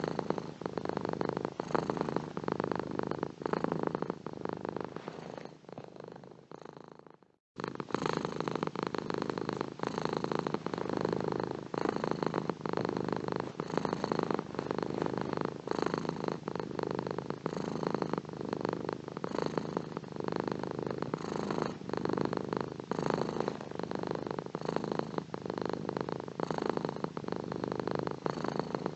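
Domestic cat purring in a steady, rhythmic rasp. About seven seconds in, the purr fades, stops for a moment, then starts again abruptly at full strength.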